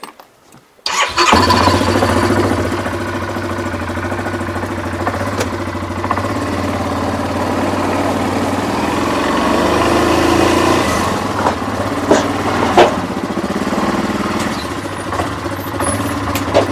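Yamaha Grizzly 700 ATV's single-cylinder engine starting about a second in, then running steadily at idle. Two sharp knocks come near the end.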